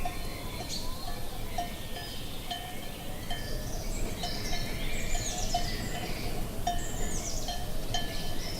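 Cowbells on grazing cattle clanking at irregular intervals, each strike ringing briefly, with birds chirping over them.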